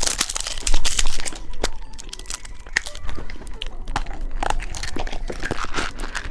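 Plastic candy packaging crinkling and tearing as it is handled and opened, with many irregular crackles, loudest about a second in.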